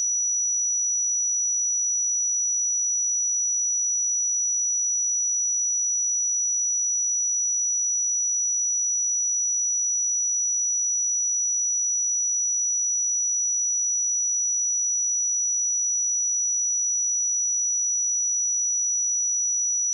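A pure 5878 Hz sine-wave test tone, a single steady high-pitched note held at constant level.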